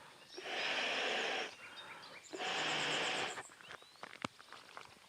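Long rasping, scraping strokes, each about a second long, repeated about every two seconds: two in a row, then a single sharp click a little later.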